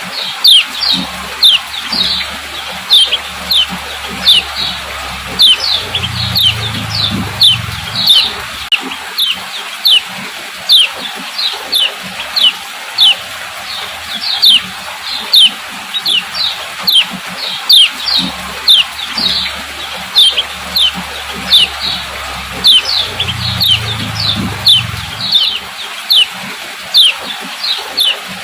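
Female kecial kuning (yellow white-eye) giving short, sharp, falling 'ciak' calls over and over, about two a second, over a steady hiss. This is the female call used to stimulate male white-eyes into song.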